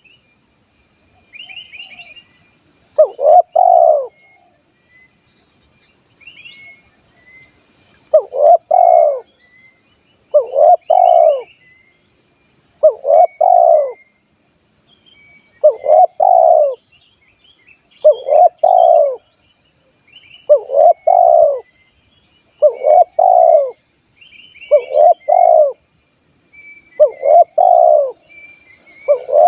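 Spotted dove (tekukur) cooing as a lure call: a series of two-part coo phrases about a second long, repeating every two to three seconds after a pause of about four seconds near the start. Under them are faint high chirps and a steady high buzz.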